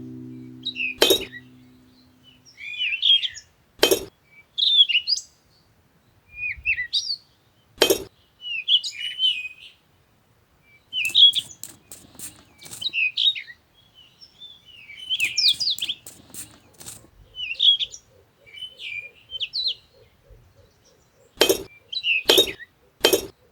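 Small birds chirping in short, repeated twittering phrases, with a few sharp clicks or knocks in between, three of them close together near the end.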